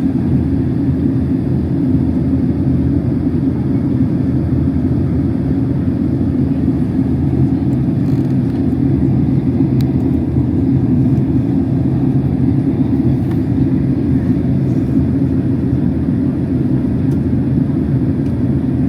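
Boeing 767-300 airliner cabin noise during descent: a steady low drone of engines and airflow that holds even throughout.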